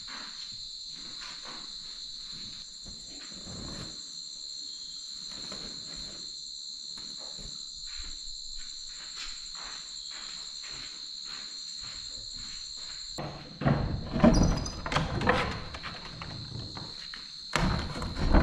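Insects, most likely crickets, chirring steadily, with faint small ticks underneath. About thirteen seconds in, the higher part of the chirring stops and a run of loud, irregular knocks and clattering begins; it returns just before the end.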